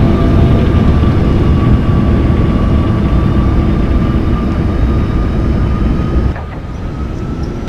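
Loud, steady aircraft engine noise with a steady whine over a deep rumble, cut off suddenly about six seconds in and followed by a quieter rumble.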